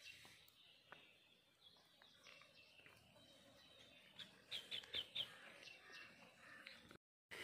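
Faint bird chirps over quiet ambience, with a quick run of four short chirps a little past the middle. The sound cuts out briefly near the end.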